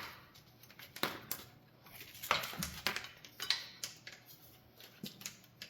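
Scattered light clicks, taps and short scrapes of small hard objects being handled, at irregular intervals.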